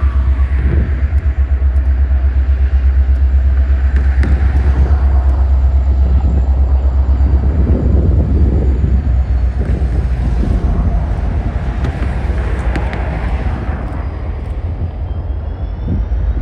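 A passing train: a loud, steady low rumble with a fast, regular pulsing, easing slightly near the end.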